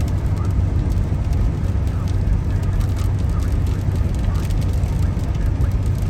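Steady road and engine noise inside a moving car's cabin, a constant low rumble with no sudden events.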